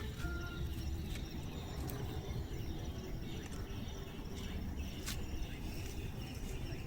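Outdoor ambience: a steady low rumble, like wind on the microphone, with scattered sharp clicks and a faint brief chirp at the start.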